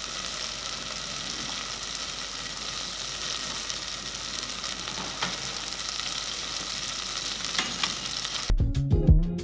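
Steady sizzling hiss of cooking on a gas cooker, with a few faint clicks and taps as the oven is worked. Background music comes back near the end.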